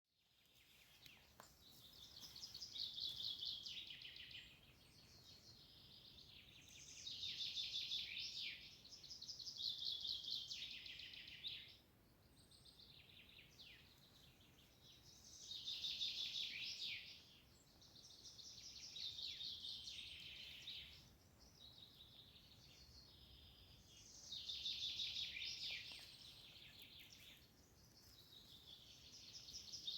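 Songbird singing: a repeated phrase of about two seconds, a fast high trill ending in quick downward notes, sung again every three to five seconds over a faint low outdoor rumble.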